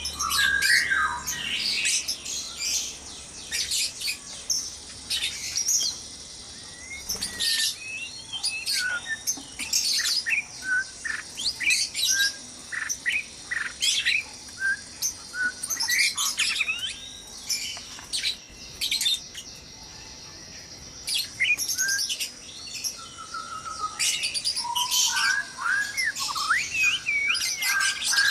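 White-rumped shamas calling: a busy, continuous run of short chirps and whistled notes from several birds, overlapping one another, with brief lulls near the middle.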